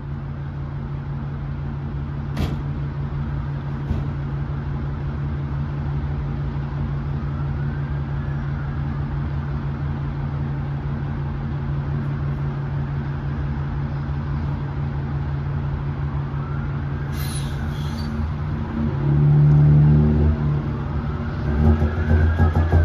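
Ford Cargo truck's diesel engine, fitted with a modified exhaust, idling steadily. Near the end it is revved twice, each rev swelling louder and deeper.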